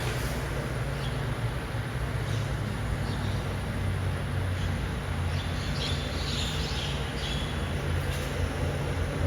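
Mercedes-Benz Arocs garbage truck's diesel engine running steadily, with a few faint high squeaks and clinks about five to seven seconds in.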